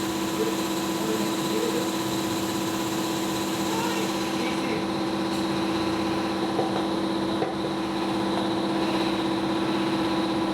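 Motorcycle engine idling steadily, with faint voices in the background.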